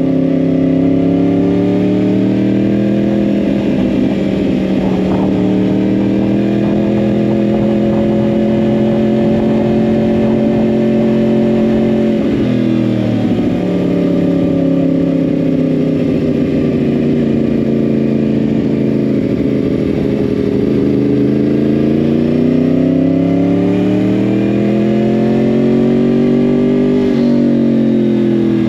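Yamaha R1 crossplane inline-four with a Yoshimura exhaust running under way. The engine pitch holds fairly level, breaks sharply about twelve seconds in, sinks slowly and then climbs again, and drops suddenly near the end.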